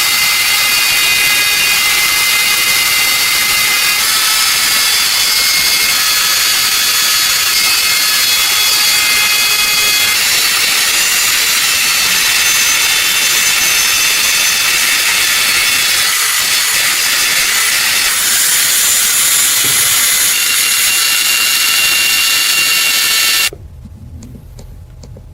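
A high-speed power tool running steadily, with whining tones that shift in pitch every few seconds. It stops abruptly about 23 seconds in, leaving a faint low hum.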